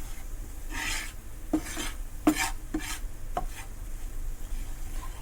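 A spoon stirring and scraping flour frying in ghee in a pan: a roux being cooked for a white sauce. There are several short scraping strokes over the first three and a half seconds, then it goes quieter.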